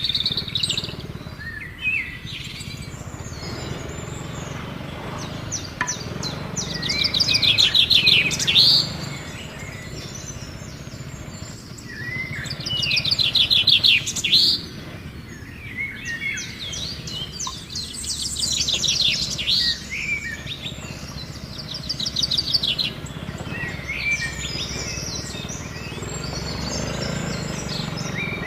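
Wild birds singing and calling. The loudest is a fast trill that comes back about every five seconds, with other short chirps and rising and falling whistles in between, over a steady low rumble.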